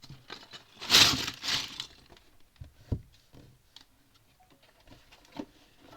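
Lego pieces and their packaging being handled: a loud rustling, rattling burst about a second in, then scattered light plastic clicks and taps.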